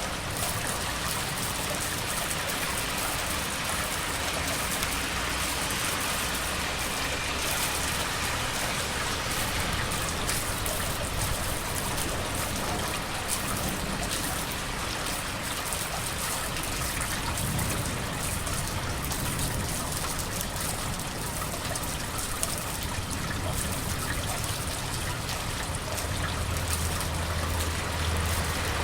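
Steady rain falling, with water trickling and splashing, over a low rumble of road traffic that grows louder near the end.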